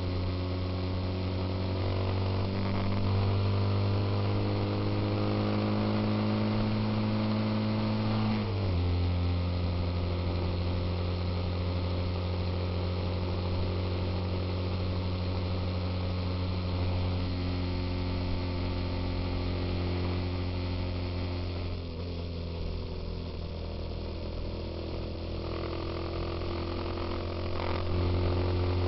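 Suzuki Intruder motorcycle engine running while riding on the road, its note slowly climbing and then dropping sharply about eight seconds in as the rider shifts up a gear, then holding steady at cruising speed.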